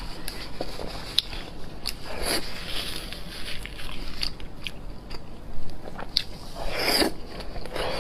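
Close-miked eating of spicy meat: biting and chewing with many sharp clicks and crackles, and two louder, longer wet sounds about two seconds in and near the end.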